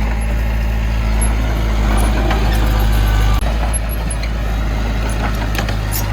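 Diesel engine of heavy earthmoving equipment running steadily under load with a low hum, joined by scattered metallic clanks and rattles. The engine note drops slightly about three and a half seconds in.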